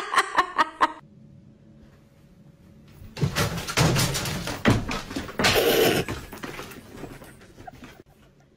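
A quick run of pitched pulses, about four a second, stops about a second in. After a short pause come a few seconds of knocks and clattering, the loudest crash a little past halfway.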